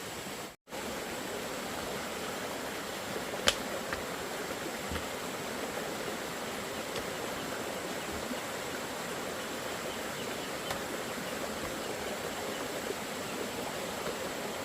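Steady rushing noise like running water. A single sharp knock comes about three and a half seconds in, and the sound cuts out for a moment just after the start.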